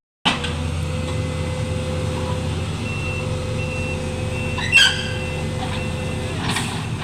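Heavy diesel machinery running steadily while a backup alarm beeps, starting about three seconds in and repeating roughly every two-thirds of a second. A brief louder screech cuts across it near the five-second mark.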